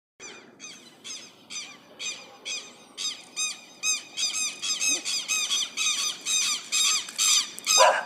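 Red-legged seriema calling: a loud series of yelping notes that starts about two a second and grows faster and louder, the notes crowding together from about three seconds in.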